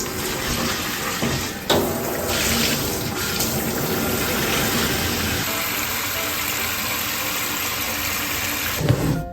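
Water running steadily, with a short knock about two seconds in.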